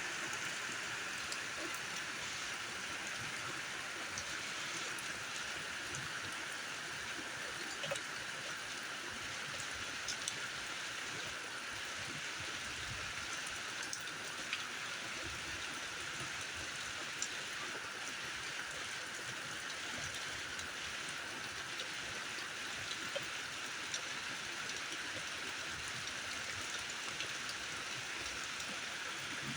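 Heavy rain pouring steadily: a dense, even hiss with a few sharper drop ticks.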